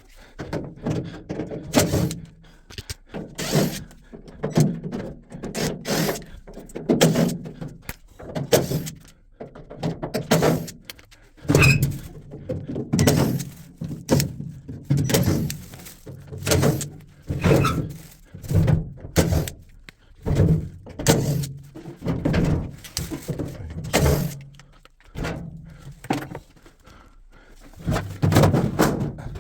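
Series of thunks and knocks, one about every second and irregularly spaced, from a top-loading washing machine being taken apart and handled, sped up.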